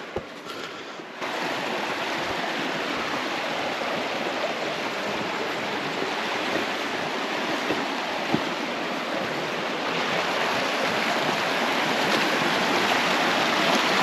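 River water rushing over rocks: a steady rush that comes in suddenly about a second in and grows a little louder near the end.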